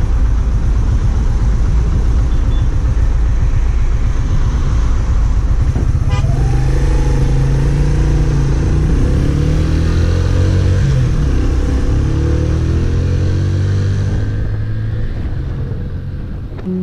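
Benelli VLX 150 motorcycle running on the road, its engine with wind rushing over the microphone; from about six seconds in the engine note rises and falls as the throttle changes.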